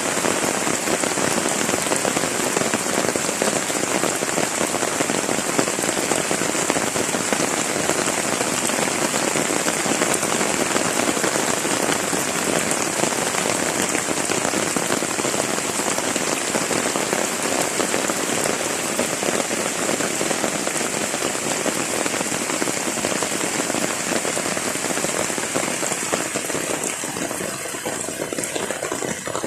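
Heavy rain falling steadily, a dense even hiss of drops on surfaces and plants, easing slightly near the end.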